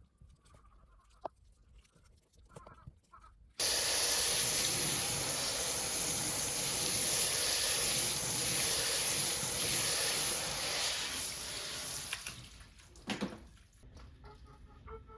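Water spraying hard during a car wash, starting suddenly about three and a half seconds in, running steadily for about eight seconds, then tailing off, with a short burst after.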